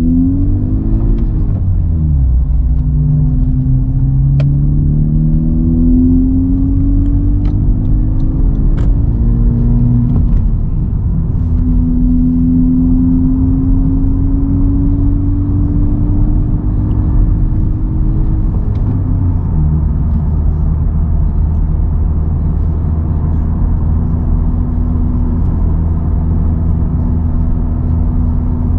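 Honda Civic Type R's turbocharged 2.0-litre four-cylinder with an AWE Touring exhaust and K&N air filter, heard inside the closed cabin at moderate revs. The engine note climbs as the car accelerates, drops with an upshift about ten seconds in, climbs slowly again, drops with a second shift near the 19-second mark, then holds steady while cruising.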